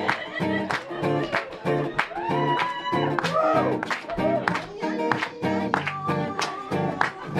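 Guitar strummed in a steady rhythm, played as an improvised Indian-style musical accompaniment. A voice sings gliding, wavering notes over it about two to four seconds in.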